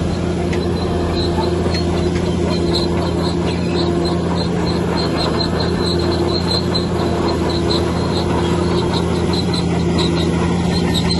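Heavy diesel engine of earthmoving machinery running steadily, with short high squeaks repeating over it.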